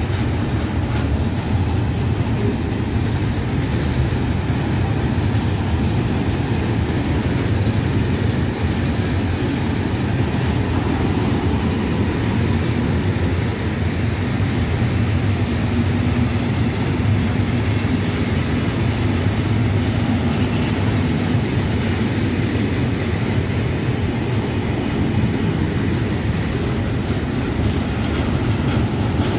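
Container freight train of flat wagons passing close by, its wheels running steadily over the rails with a low, even rumble.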